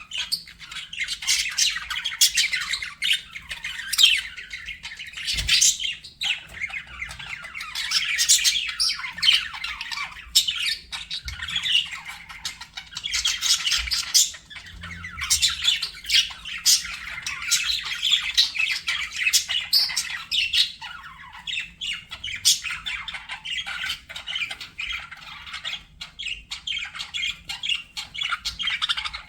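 Several budgerigars chattering, with many quick overlapping chirps and warbling calls that run on without a break.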